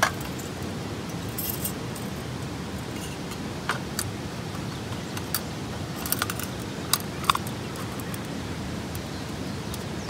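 A handful of light metallic clinks and clicks as a small metal camping lantern with an oil insert is handled, over a steady background hiss.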